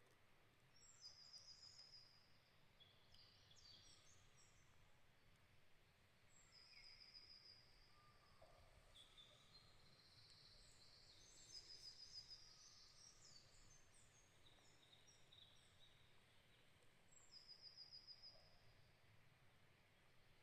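Several small birds singing faintly over a low background hush. Among the chirps and short phrases, one bird repeats a short, fast, high trill about every five seconds.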